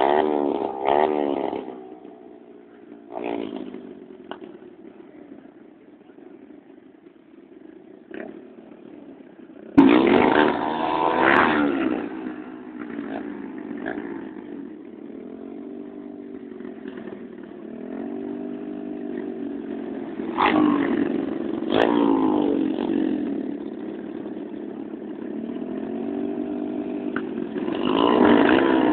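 Motorcycle engines revving, their pitch rising and falling in repeated sweeps. A sudden loud burst comes about ten seconds in, and the engines swell again near the end.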